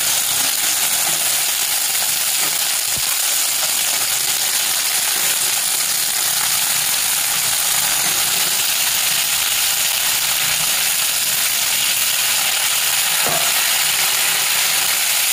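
Stuffed brinjals and onion-tomato masala sizzling in hot oil in a kadhai: a steady hiss, with a light knock near the end.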